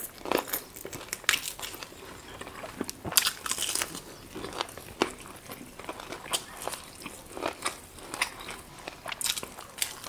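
Close-up eating sounds of chicken leg pieces being bitten, chewed and gnawed off the bone, heard as irregular sharp clicks and wet crackles.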